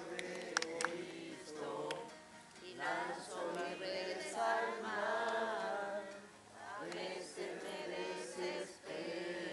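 A group of voices singing together, with a few sharp hand claps in the first second.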